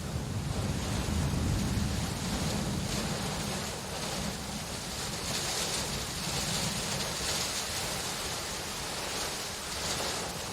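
Steady rain with distant thunder rumbling low in the first half, the rumble fading while the hiss of the rain swells later.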